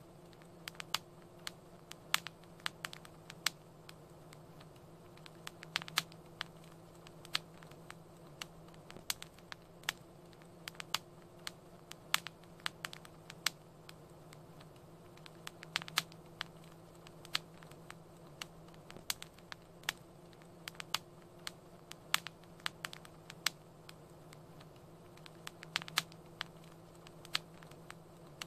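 Wood fire crackling in a fireplace: irregular sharp pops and snaps, several a second, some louder than the rest, over a faint steady low hum.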